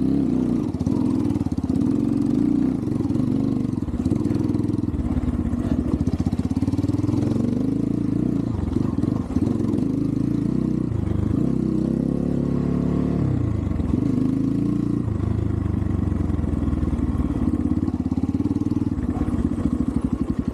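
Xpro Templar X 250cc dirt bike engine running under load, its revs rising and falling again and again as the throttle is worked over rough ground.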